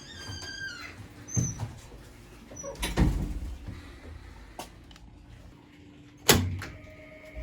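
A few separate knocks and thumps, the loudest about six seconds in, with a short squeak at the very start.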